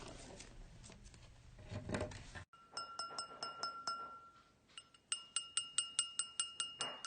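A small bell-like chime struck again and again, each strike ringing a clear note. First comes a lower note over about a second and a half, then after a pause a higher note struck rapidly, about six times a second, near the end.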